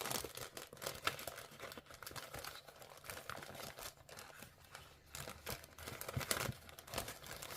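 Sheets of patterned craft paper rustling and crinkling irregularly as they are handled and leafed through by hand.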